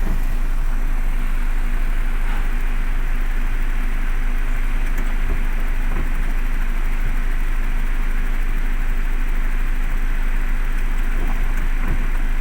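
Heavy rain falling steadily, with a vehicle engine running underneath as a constant low hum.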